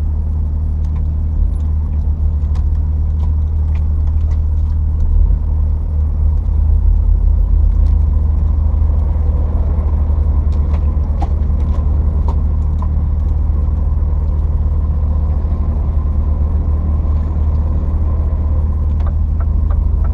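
Steady low rumble of a truck's diesel engine and road noise heard inside the cab while driving, with faint scattered ticks and rattles.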